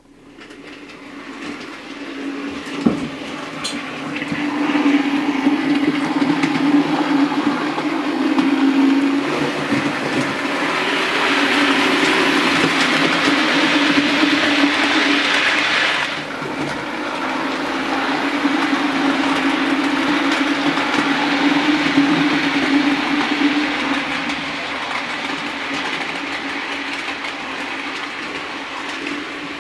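OO gauge Bachmann Class 47 model diesel locomotive running on the layout: a steady electric motor hum with wheel and track noise. It builds up over the first few seconds, then rises and falls in loudness as the model travels around the track.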